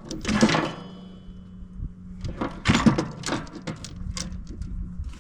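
Metal hand tools clattering and clinking in two bursts of handling, with a low steady hum underneath.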